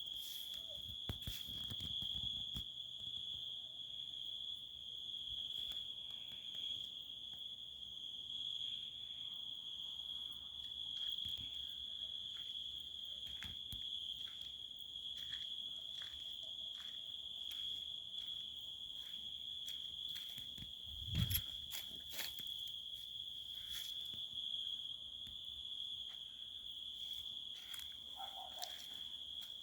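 Crickets chirping at night as one continuous, steady high trill. Faint scattered clicks sit under it, and a brief low thump comes about two-thirds of the way through.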